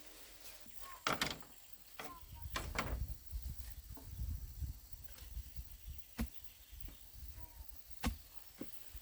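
A few scattered sharp knocks and clatters, loudest about a second in, with a low rumble between them.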